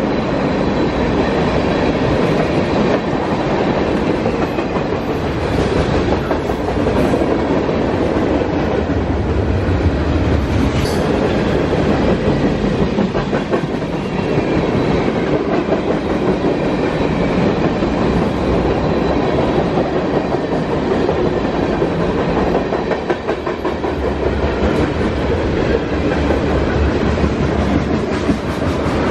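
A CSX mixed freight train's tank cars, boxcars and hoppers rolling past close by, their steel wheels making a steady rumble on the rails.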